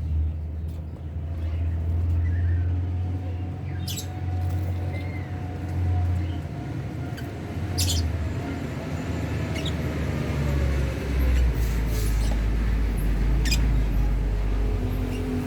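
Lovebirds in a colony cage give a few short, sharp chirps over a loud, low, steady rumble.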